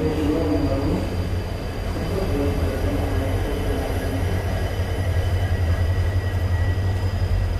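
Passenger train rolling slowly into a station, heard from the open door of a coach: a steady low rumble of wheels on track, with a few thin, steady high-pitched tones above it.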